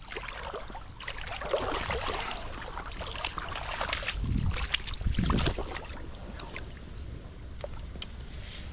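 Water splashing and sloshing as a freshly caught smallmouth bass is handled at the creek's edge, with rustling and small knocks and a few low thumps about four to five seconds in.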